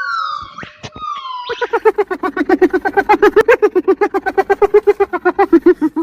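An animal call: a few falling, whining tones, then from about a second and a half in a long, fast run of loud pitched pulses, about nine a second, that stops at the end.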